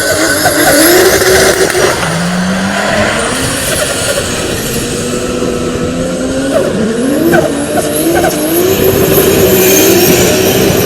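Toyota Supra Mk4's turbocharged 2JZ inline-six revving up and down again and again under heavy throttle, over a steady screech of sliding tyres during a drift.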